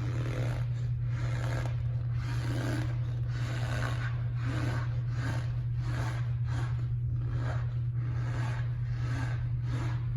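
Packed cornstarch squeaking and crunching as it is pressed, in a run of short rubbing strokes about two a second, over a steady low hum.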